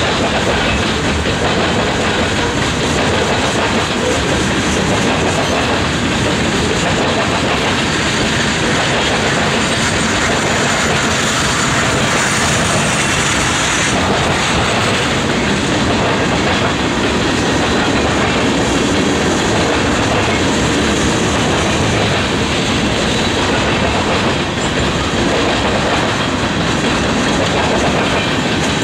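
Freight cars of a manifest train rolling past, their wheels clacking over the rail joints in a steady repeating rhythm.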